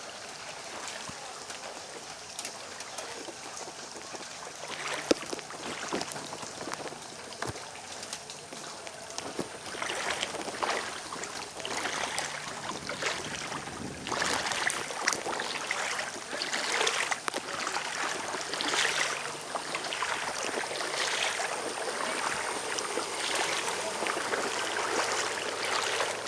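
Floodwater sloshing and splashing in an irregular run of splashes that grows louder about ten seconds in.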